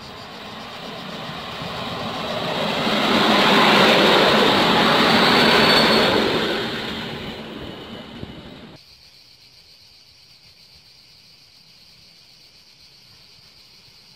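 Diesel-hauled train passing by: the rumble of wheels on rails swells to a loud peak a few seconds in and then fades, cutting off abruptly about nine seconds in and leaving a faint steady hiss.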